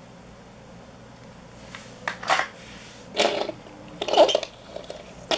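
Handling noise from a small object being moved about in the hands: after about two seconds of quiet room tone come three short rustling clatters, roughly a second apart, and a click near the end.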